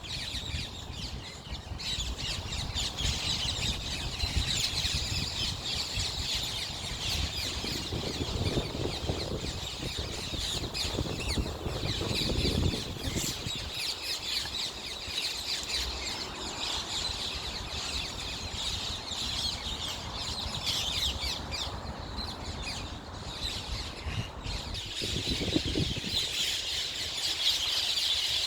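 A large flock of feral rose-ringed parakeets, a couple of hundred birds in the trees, all calling over each other in a continuous dense chorus of short, high, shrill calls.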